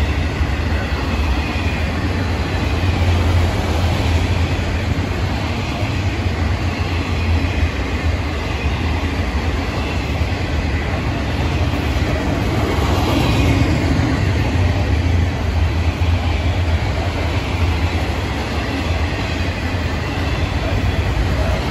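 A Florida East Coast freight train's autorack cars rolling past at close range: a steady heavy rumble and rattle of steel wheels on rail, briefly louder and brighter about thirteen seconds in.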